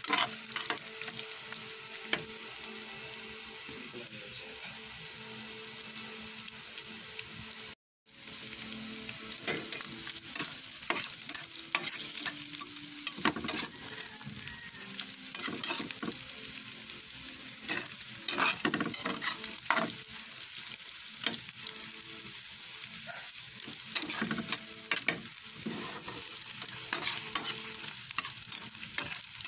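Ground pork and sliced hotdogs sizzling in hot oil in a pan, stirred with frequent scrapes and taps of the utensil against the pan. The sound drops out for a moment about eight seconds in.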